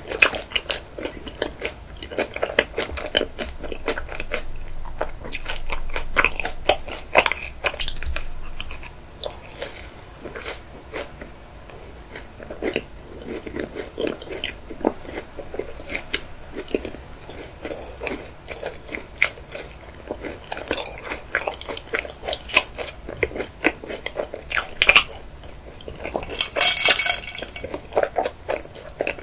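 Close-miked chewing of chocolate macarons and chocolate, with small crunches and wet mouth clicks. Near the end, a brief clatter of ice in a glass as it is picked up.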